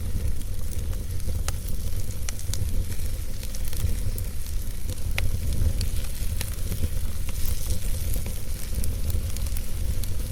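Wood fire burning in a fireplace: a steady low rumble of the flames with irregular sharp crackles and pops, a few each second.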